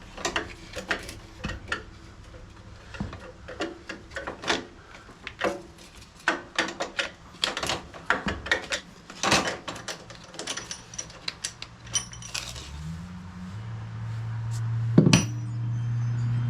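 Metal hand tools clinking and rattling in irregular clicks and clanks, as work starts on a lawn tractor's oil change. About thirteen seconds in, a steady low motor hum sets in, with one loud knock shortly after.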